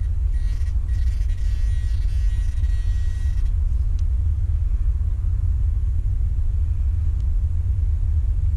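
A metal detector's steady electronic signal tone for about three seconds, starting just after the start, over a steady low rumble that continues throughout.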